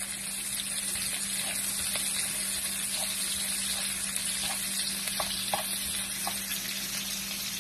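Chopped onion and garlic sizzling in hot oil in a nonstick wok, stirred with a wooden spatula that makes a few light taps against the pan. A steady low hum runs underneath.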